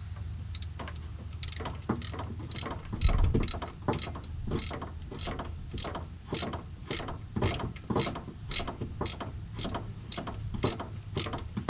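Hand ratchet wrench clicking in a steady rhythm, about two clicks a second, as a pump mounting bolt is backed out on a 1983 Chevrolet Square Body engine.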